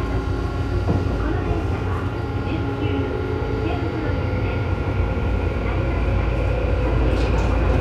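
Tobu 9000 series armature-chopper control equipment whining under the car floor while the train runs, a set of steady tones with one creeping slightly upward in pitch, over the low rumble of the wheels on the rails. This car's chopper is the one on the train that makes an abnormal noise.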